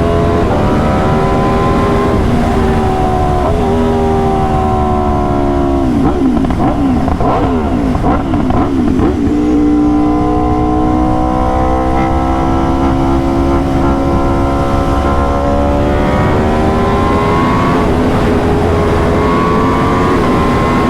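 Aprilia RSV4's V4 engine running under way, its pitch rising and falling with throttle and gear changes. About six to nine seconds in comes a cluster of quick pitch changes with pops, like the quick-shifter shifts and pops on shift of this bike.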